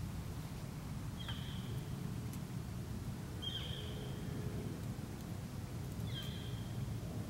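Quiet outdoor ambience: a steady low rumble with a bird giving a short high call three times, about every two and a half seconds.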